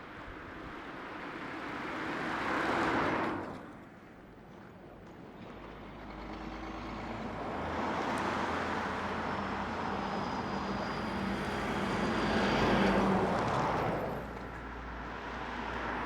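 Road vehicles passing, each one's noise swelling and fading away: a short pass about three seconds in, then a longer one with a low engine hum from about six to fourteen seconds, and another rising near the end.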